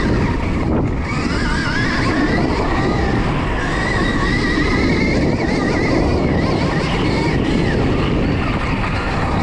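Stark Varg electric motocross bike being ridden: a high electric-motor whine that rises and falls with the throttle, over a steady rush of noise.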